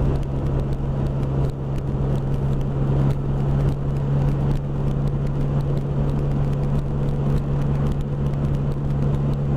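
Can-Am Spyder F3's Rotax 1330 inline-three engine running at a steady cruising speed, its note holding even, with wind rushing over the microphone.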